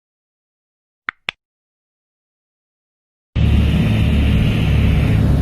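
A quick double click about a second in, then a loud, steady engine noise with a low hum that starts abruptly near the end, the kind of engine and airflow noise recorded from an aircraft filming from the air.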